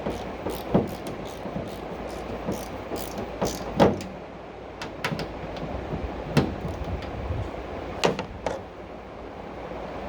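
Scattered irregular knocks and clicks over a steady rumbling noise, the loudest knocks about four, six and eight seconds in.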